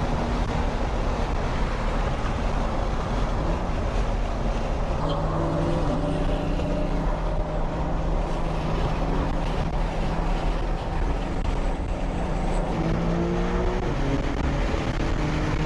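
Porsche 911 (992) engine running on the road under a steady low rumble of road noise, its pitch rising twice as the car accelerates.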